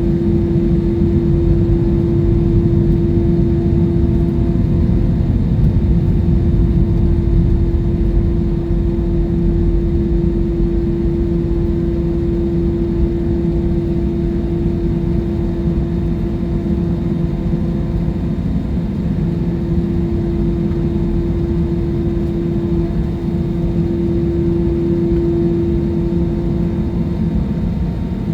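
Jet airliner cabin noise: a steady rumble of the engines and rushing air, with a constant droning tone over it.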